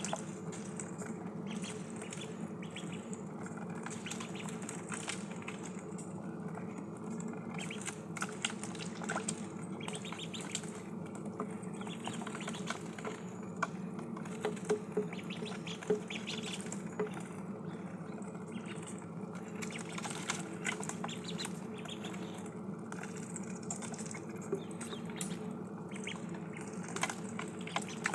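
Ducklings pecking and dabbling at food and water: an irregular patter of small clicks and wet sounds, over a steady low hum.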